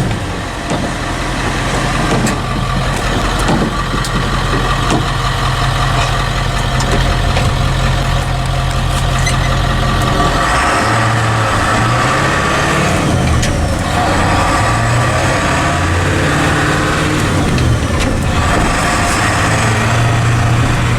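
7.3-liter Power Stroke turbo-diesel V8 in a 1976 Ford F600 truck running. Its note holds steady for about ten seconds, then rises and falls in pitch several times as the revs change.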